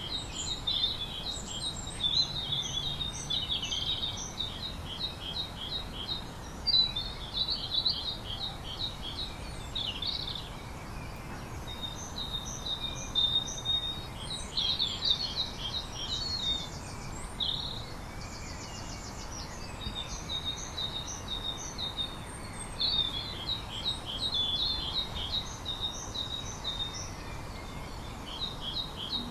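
Songbird singing: short, fast series of high chirps, each a second or two long, repeated every couple of seconds over a steady low hiss.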